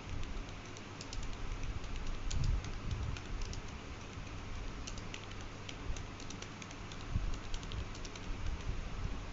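Typing on a computer keyboard: quick, irregular key clicks with some dull low knocks.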